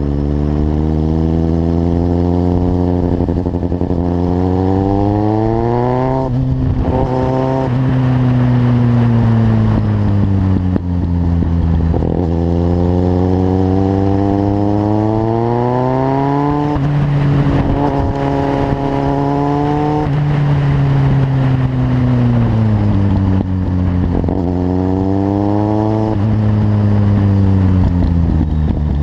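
Kawasaki Z750's inline-four engine through a carbon LeoVince exhaust, under way: the revs climb, drop sharply at gear changes, hold briefly, then fall away as the throttle eases and climb again, several times over.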